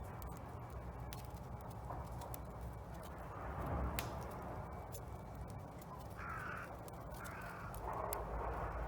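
Crows cawing, a series of short harsh calls starting about six seconds in, over a wood fire crackling with sharp pops in a steel fire pit. A steady low rumble runs underneath.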